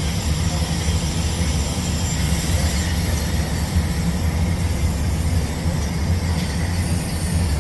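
Steady low hum with an even hiss over it, unchanging throughout: welding equipment running during TIG pipe welding.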